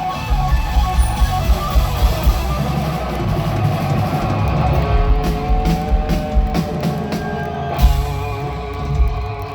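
Live rock band playing: a drum kit beating steadily under electric guitar, then held chords and one big drum hit near the end.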